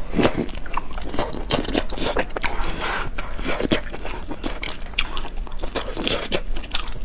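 A person chewing food close to a clip-on microphone: a dense, continuous run of small mouth clicks and smacks.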